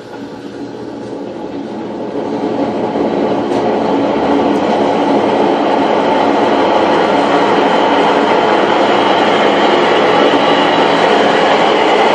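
Electrolux LTE12 top-loading washing machine in its spin cycle, a deafening mechanical rumble that builds over the first few seconds as the drum speeds up, then holds steady. The technician traces the noise to a failed tub seal and worn mechanism and motor bearings.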